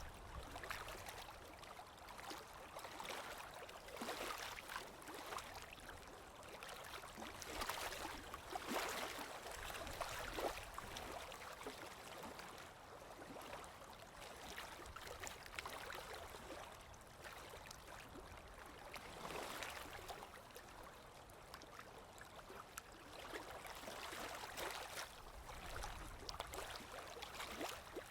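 Sea waves washing in gently, a soft rush of water that swells and fades every few seconds.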